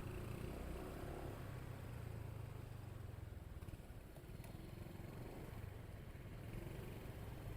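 Motorcycle engine running with a steady low rumble while riding, easing off slightly about halfway through.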